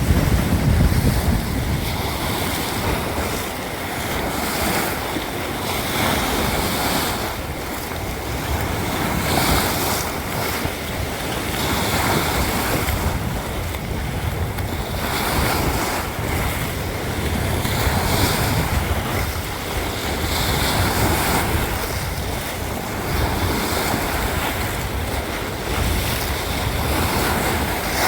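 Sea waves in a strong wind, the noise swelling and ebbing every few seconds, with gusts rumbling on the microphone.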